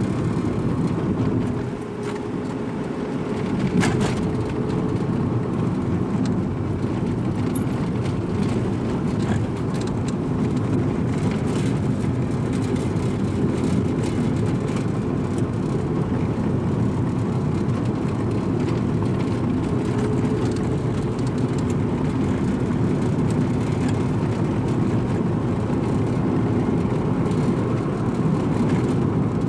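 Strong wind buffeting the microphone, a loud, steady low rush. It eases briefly about two seconds in, and there is one sharp knock about four seconds in.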